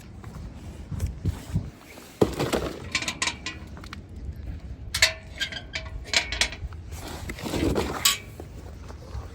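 Irregular clatter of knocks and clinks, with sharp strikes about two seconds in and again about five seconds in.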